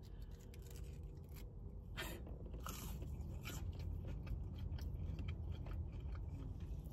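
A person chewing a McDonald's chicken nugget with the mouth closed: soft, scattered crunches over a low steady rumble.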